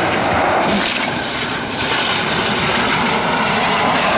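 Airplane engines running, a loud steady noise without breaks.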